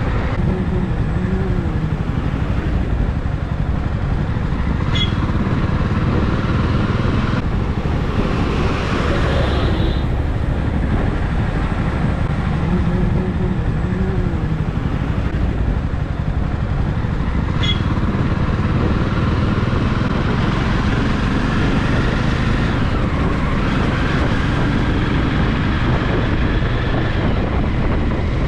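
Jawa motorcycle under way, its engine running steadily with continuous road noise, with faint rising and falling engine notes now and then.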